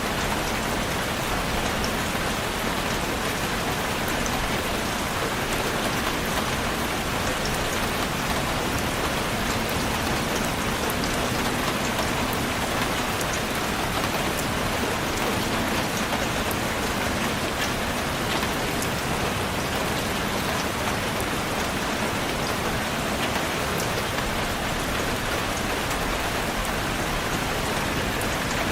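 Steady rain falling and pattering on a surface, an even hiss with many small drop ticks through it.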